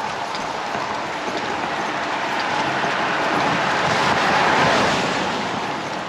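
A vehicle passing by: a steady rushing noise that swells to its loudest about four and a half seconds in and then eases off, with a few faint clicks.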